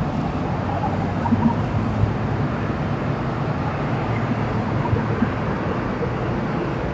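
Steady low rumble of a running vehicle with an even noisy hiss over it.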